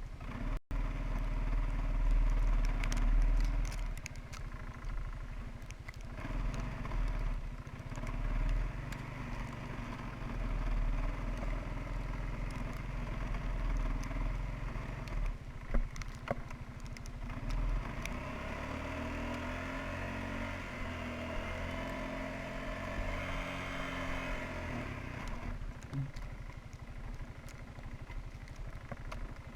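Suzuki Quadrunner 300 ATV engine running under load, its pitch going up and down as the throttle changes, over a heavy low rumble. It steadies out for several seconds in the second half.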